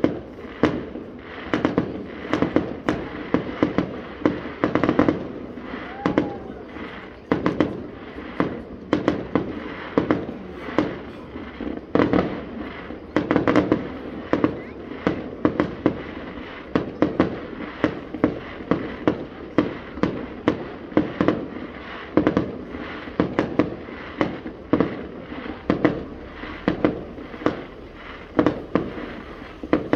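Aerial fireworks going off in a continuous barrage, bangs and crackling bursts coming several times a second.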